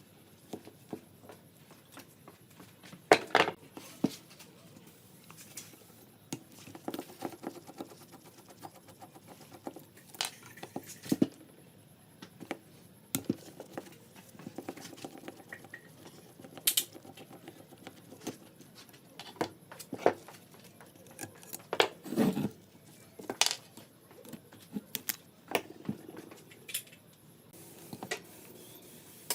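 Irregular metallic clinks, taps and knocks of small carburetor parts and hand tools being handled on a work surface, with a few louder knocks among lighter clicks.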